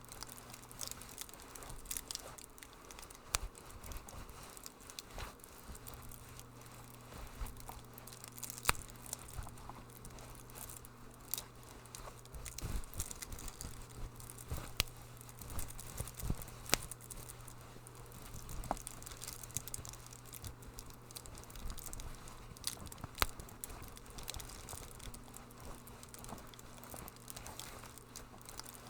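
Wood fire in a fireplace crackling, with irregular small crackles and occasional sharper pops over a low steady hum.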